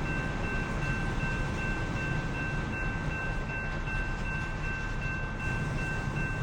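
Train rumbling steadily on the rails, with two steady high ringing tones held above the rumble.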